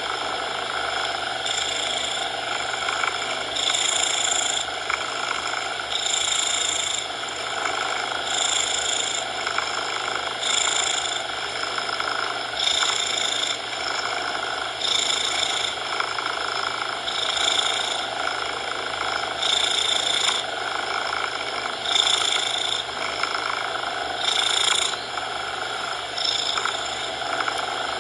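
A cat purring mixed with a steady coloured-noise bed, the sound swelling and brightening about every two seconds.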